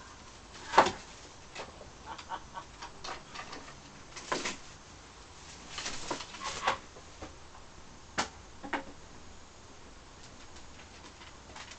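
Pet blue-and-gold macaw making scattered clicks and taps, with a few short quiet chirps; the sharpest click comes about a second in.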